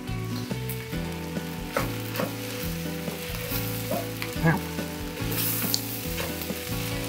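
Fried rice and vegetables sizzling in a stainless steel pot over high heat while being stirred with a wooden spoon, with a few knocks of the spoon against the pot. A steady low tone runs underneath and shifts in pitch every second or so.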